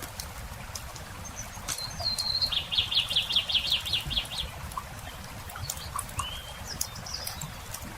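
Campfire crackling throughout, with a small songbird singing: a high note, then a fast trill of about a dozen notes about two seconds in, and short chirps near the end.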